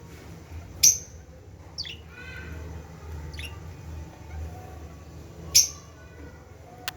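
Lovebirds calling: two loud, sharp high calls, about a second in and again near the end, with softer falling chirps between, over a low steady hum.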